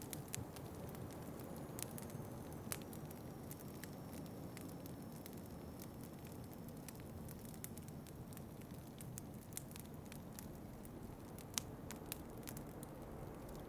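Wood fire crackling in a fireplace, with scattered sharp pops and one louder pop near the end, over a steady low rumble of wind.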